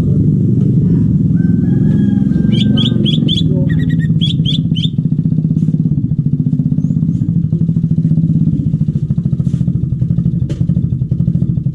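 A motor engine running steadily and loudly, with a fast even pulse. About two and a half seconds in, a bird gives a quick run of about eight sharp, high, down-slurred chirps in two groups, ending about five seconds in.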